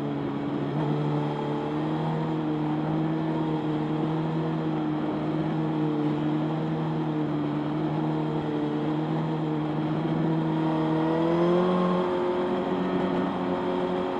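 Motorcycle engine running at a steady pitch under a haze of road and wind noise; about ten seconds in the engine note rises and then holds at the higher pitch.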